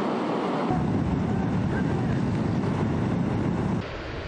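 Steady rushing roar of a muddy river in flood, in raw field footage, with abrupt changes in level about a second in and near the end.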